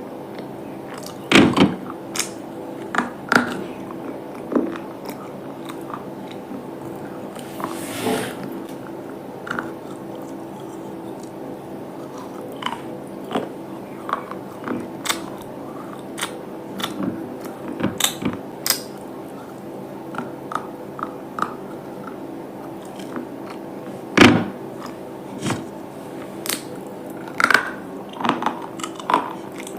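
Close-up biting and chewing of hard, brittle items: a string of sharp, irregular crunches, the loudest about a second and a half in and another past the three-quarter mark, over a steady low hum.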